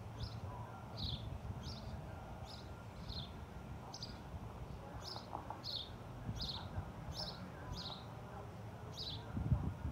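A bird chirping over and over: short high chirps, each sliding down in pitch, repeated every half second or so. A low rumble of wind or handling on the microphone runs underneath, with a few low bumps near the end.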